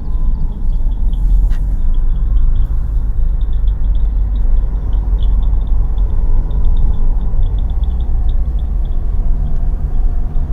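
Steady low rumble of a car driving, heard from inside the cabin, with a faint rapid high chirping from outside running through it.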